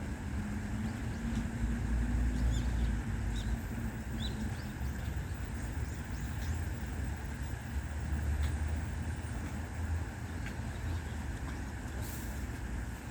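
Faint, short bird chirps scattered here and there over a steady low rumble.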